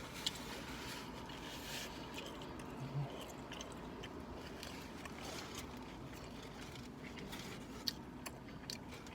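A person chewing a mouthful of burger, with small wet mouth sounds and a few short clicks over a steady low background noise.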